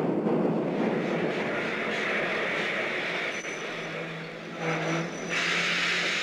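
Steady rushing rumble of a railway train running, which turns brighter and more hissing about five seconds in, over a faint low hum.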